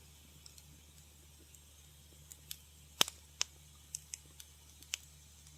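Wood fire crackling in a fireplace: sharp pops and snaps, only a few small ticks for the first two seconds, then a run of louder pops from about three seconds in, over a steady low hum.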